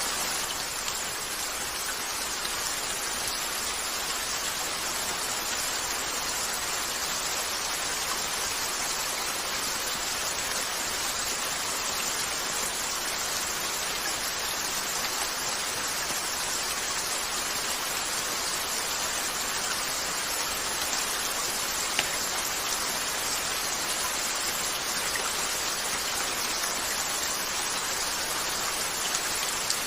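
Steady rain falling on a window, an even hiss with no change in strength, with a few faint pops from a crackling wood fire, the clearest about 22 seconds in.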